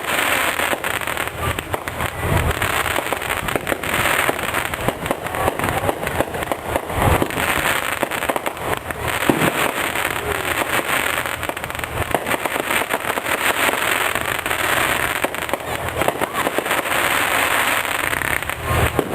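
Fireworks display: a dense, continuous run of crackling and popping bursts.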